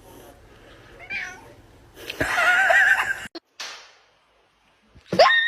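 Domestic cat meowing: a short call about a second in, then a longer meow a second later. A sudden louder sound starts near the end.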